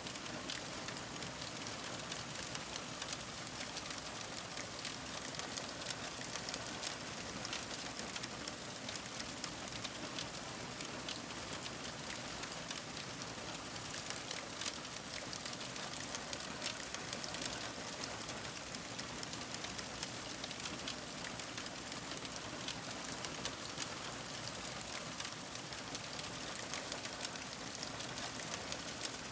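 Fire crackling: a steady hiss dense with small, quick crackles and pops that go on without a break.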